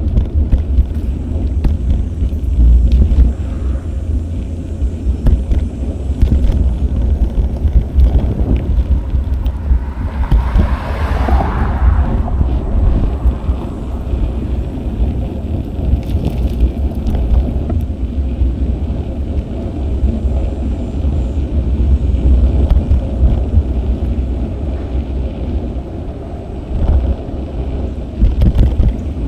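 Wind rumbling on an action camera's microphone while riding a bicycle, with a vehicle passing about ten seconds in, its sound swelling and fading over a couple of seconds.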